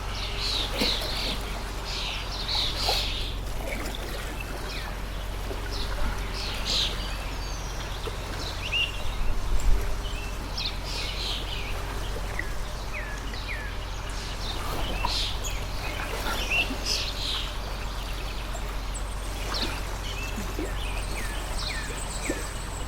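Small birds chirping over and over above the steady rush of a flowing stream.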